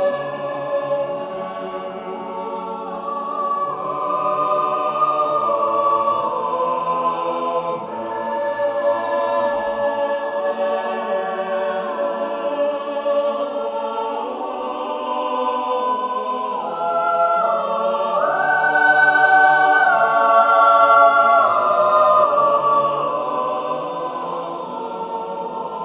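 Background music: a choir singing slow, sustained chords that change every few seconds.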